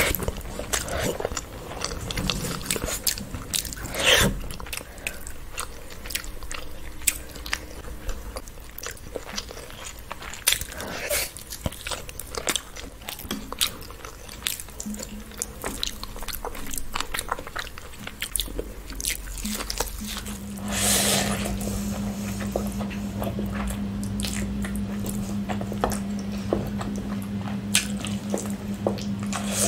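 Close-miked eating of rice and curry by hand: chewing, biting and wet mouth clicks. About two-thirds of the way through, a steady low hum starts under the chewing.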